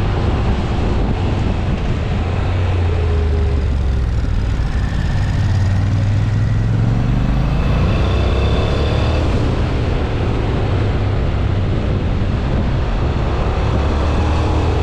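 Honda NC750X's parallel-twin engine running under load on a track ride, its note rising and falling with the throttle about halfway through.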